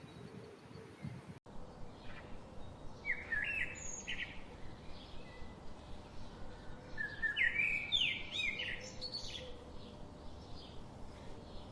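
Birds chirping in quick bursts of short, sweeping high notes, loudest in a cluster near the middle, over a steady outdoor background hiss. The background changes abruptly about a second and a half in.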